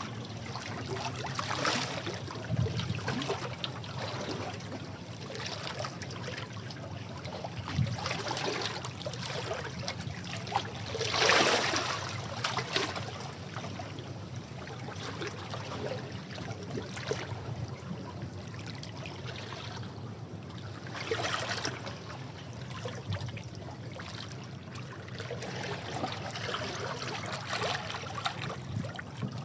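Sea waves breaking on rocks and washing back: a continuous rushing of water with louder surges, the biggest about eleven seconds in and another about twenty-one seconds in.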